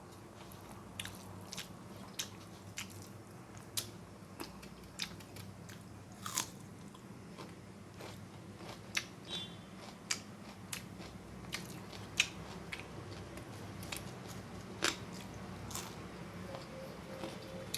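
Close-miked chewing and mouth sounds of a person eating, with irregular wet smacks and crisp clicks a second or so apart, over a low steady hum.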